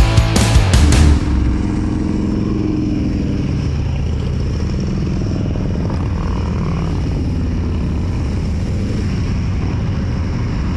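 Rock music cuts off about a second in, giving way to the steady hum of a motorcycle engine running under way.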